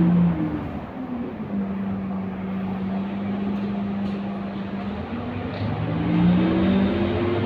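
Scania K230UB city bus's diesel engine and drivetrain: it eases off, holds a steady hum for a few seconds, then picks up again with its pitch stepping and rising as the bus accelerates.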